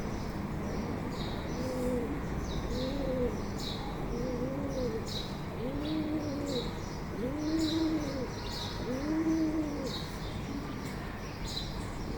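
Bird calls: a short high chirp repeating about twice a second. Under it runs a series of six low hooting notes, each rising then falling, about a second and a half apart, over a steady background hiss.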